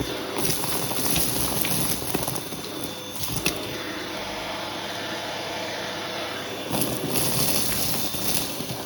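Hoover vacuum cleaner running with a hose tool: a steady motor whine under the rush of air, the hiss swelling for a couple of seconds near the start and again near the end as the tool is worked.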